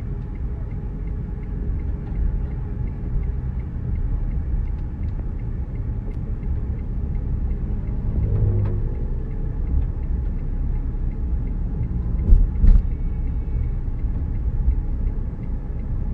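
Gusty storm wind buffeting the microphone as a steady low rumble, with road traffic under it. Two sharper thumps come about three quarters of the way in.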